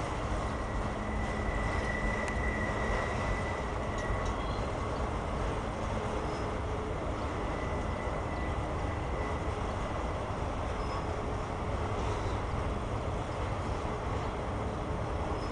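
Autorack cars of a CSX freight train rolling past: the steady rolling noise of steel wheels on rail, with a faint high whine in the first few seconds.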